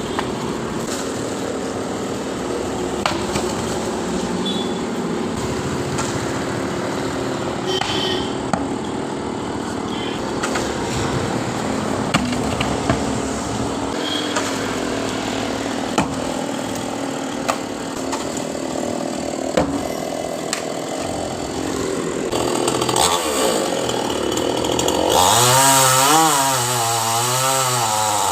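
Chainsaw cutting into a coconut tree. It runs steadily with sharp knocks every second or two, then revs hard near the end, its pitch rising and falling as it bites.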